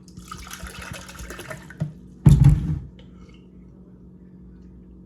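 Liquid pouring for about a second and a half, a drink being poured into a cup, then a single loud thump a little after two seconds in.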